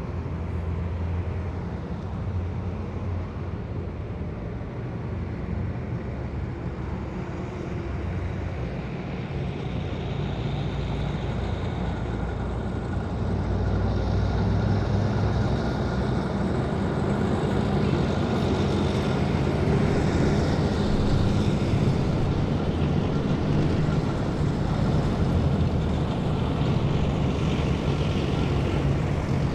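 Heavy military vehicles in a column driving past, their engines running with a steady low drone and a higher whine on top; the sound grows louder about halfway through as the vehicles come closer.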